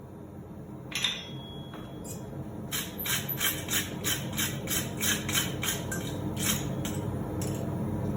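Blacksmith's hammer striking hot steel on an anvil, light finishing blows to clean up a forged hook: one blow with a ringing note about a second in, then a run of even blows about three a second. A steady low hum runs underneath.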